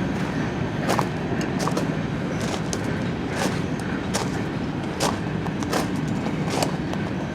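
Footsteps of someone walking at an even pace, about one step a second, over a steady low hum in the background.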